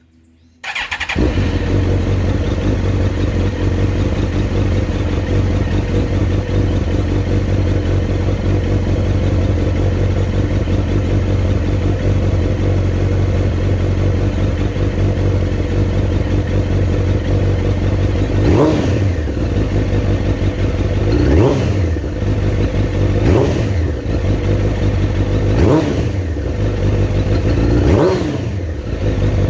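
2001 Suzuki GSX-R1000 K2 inline-four idling steadily through its Yoshimura exhaust, then blipped five times in the second half, each rev rising and falling back to idle.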